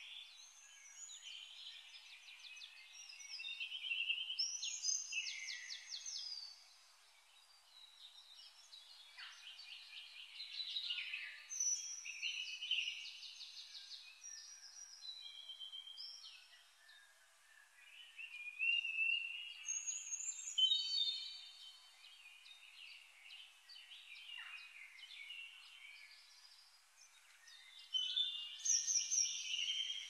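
Several songbirds singing and chirping over one another, with fast trills and whistled notes, growing louder and softer in spells.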